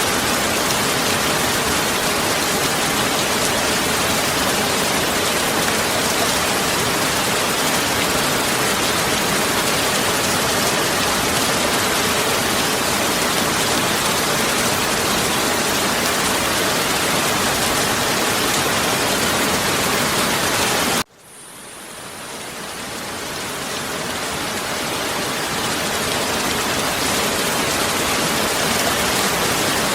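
Heavy rain falling in a steady, even hiss. About two-thirds of the way through it cuts out abruptly and then fades back up to full level over several seconds.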